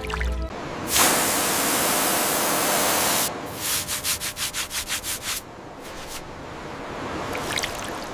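Abrasive scrubbing on a bronze blade: a steady hiss for about two seconds, then about ten quick back-and-forth strokes, then softer continuous rubbing.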